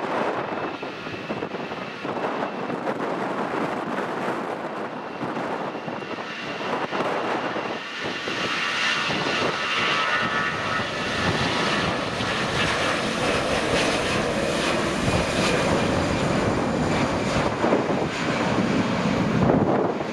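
Airliner engines running, growing louder about eight seconds in, with wind buffeting the microphone.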